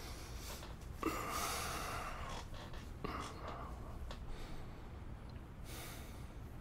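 A man breathing close to the microphone: a long breath out about a second in, a shorter one around three seconds, and another near the end, over a steady low rumble.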